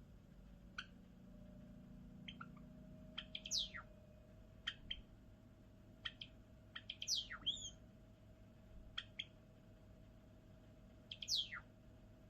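Java sparrow singing: scattered short chip notes, with three louder notes sweeping downward in pitch, about three and a half, seven and eleven seconds in.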